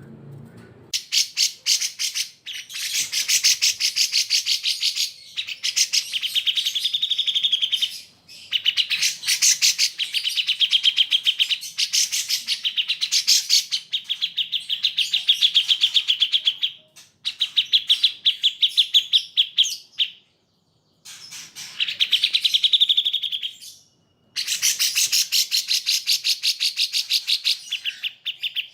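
Bulbul song: long runs of very rapid, high-pitched chattering notes in phrases several seconds long, broken by a few brief pauses.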